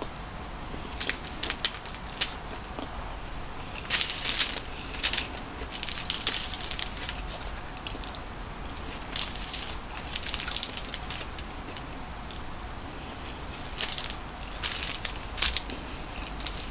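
Close-up eating sounds: a mouthful of cauliflower fried rice being chewed, with short, sharp, irregular clicks in clusters every few seconds.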